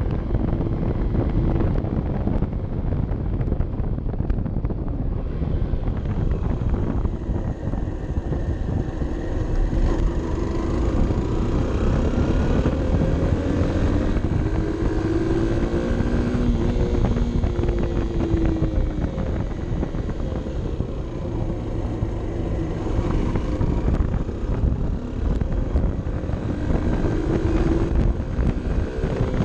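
Honda CB 125 F's single-cylinder four-stroke engine running under way, its pitch rising and falling as the revs change, with wind rushing over the microphone.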